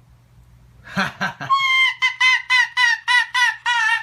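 Chicken calling in a quick run of short, pitched clucks, about four a second, starting about a second and a half in after a few rougher sounds.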